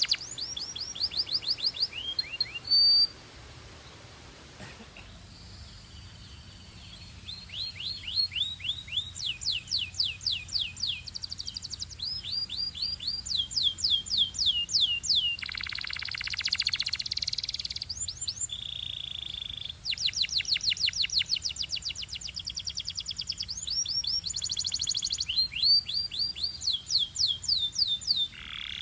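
Belgian canary singing in long, fast trills of rapidly repeated sweeping notes. It pauses briefly about three seconds in, gives a buzzy rattling roll around the middle, and holds a short steady whistle just after it.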